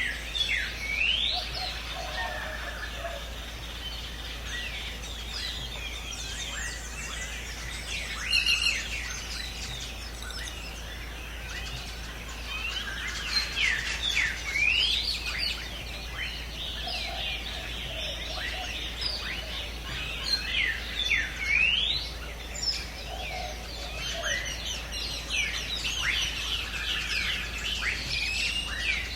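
A chorus of many birds chirping and calling at once, with frequent quick rising whistled notes and busier stretches in the second half.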